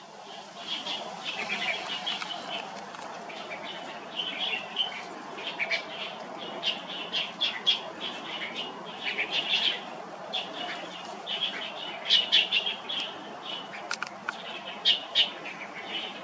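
Birds chirping: many short, high chirps in irregular clusters over a steady background hum.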